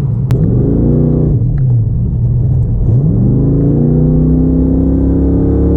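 A car's engine pulling hard on an autocross run. It revs up, eases back for about a second and a half, then climbs again and holds steady near the end. A single sharp click comes just after the start.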